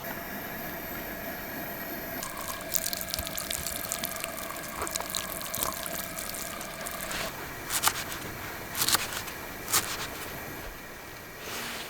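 Water in a pot on a lit camping gas stove, with a steady hiss throughout. Several sharp knocks of cookware come between about seven and ten seconds in.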